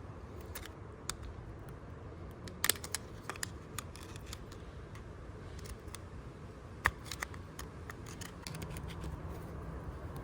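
Scattered light clicks and taps of small parts and tools being handled, over a steady low rumble.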